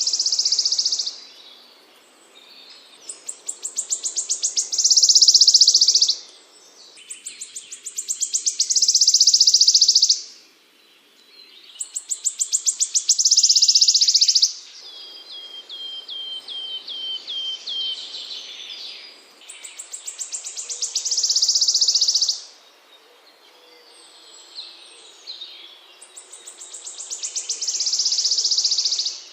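A small songbird singing over and over, high-pitched: each song is a run of notes that speeds up into a dense trill lasting about two seconds, repeated every four or five seconds. In the middle, a string of short, quick falling notes comes between two songs.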